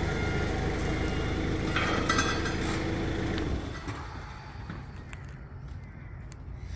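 A motor or engine running steadily with a brief metallic clink about two seconds in. It shuts off about three and a half seconds in.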